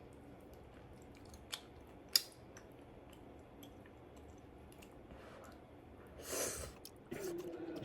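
Quiet chewing and mouth sounds of someone eating, with a few small clicks. A louder breathy rush comes about six seconds in, and a voice begins near the end.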